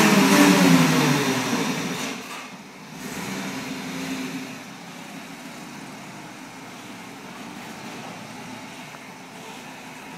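Ford Mustang GT V8 on its stock exhaust, revs falling away from a rev at the start. A brief light blip comes about three to four seconds in, then it settles to a steady idle.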